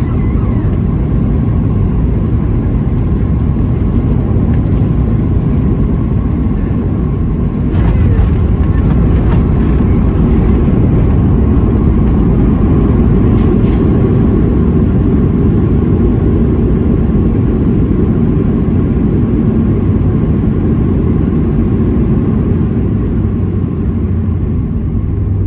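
Steady cabin noise of a Boeing 737-700 with its CFM56-7B engines, a deep rumbling roar with a faint whine over it. It grows louder and harsher about eight seconds in, with some brief rattling, then eases a little near the end.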